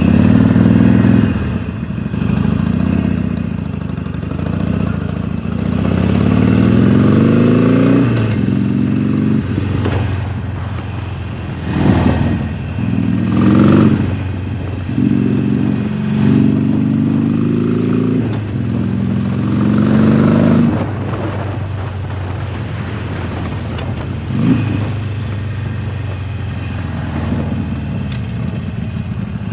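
A 2019 Harley-Davidson Sportster Forty-Eight's air-cooled V-twin, heard through a Jekill & Hyde flap exhaust, accelerating through the gears. It gives a series of rising pulls, each falling back at a gear change, then settles to a steadier, lower run with one short blip of the throttle near the end.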